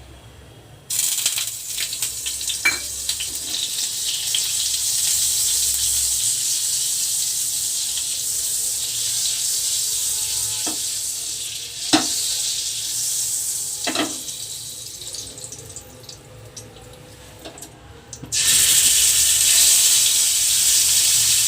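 Butter melting in hot oil in a frying pan, sizzling with a steady high hiss that starts suddenly about a second in and slowly dies down, with a few sharp clicks of a utensil against the pan. Near the end a fresh, louder burst of sizzling starts suddenly as something more goes into the hot fat.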